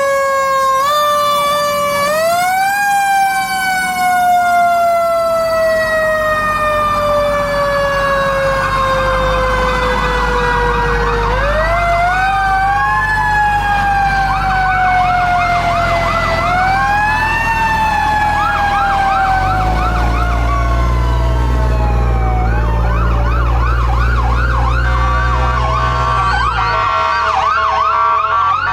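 Fire truck sirens in a parade. A mechanical siren is spun up again and again and then left to wind down slowly in long falling glides. Electronic sirens overlap it, cycling fast up and down, and a deep rumble joins for several seconds near the end.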